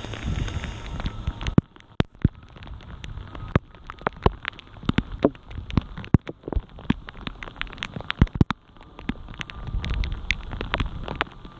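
Rain: irregular sharp ticks of raindrops striking close to the microphone over a soft hiss of rain on the pond. A low rumble comes in the first second or so and again about nine seconds in.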